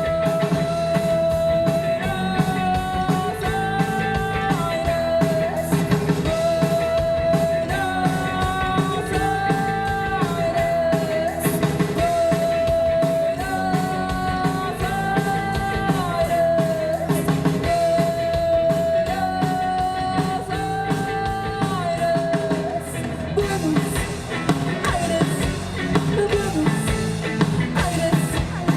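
Live rock band playing: a drum kit keeping a steady beat under a lead melody of held notes with short slides, the same phrase repeating every five or six seconds.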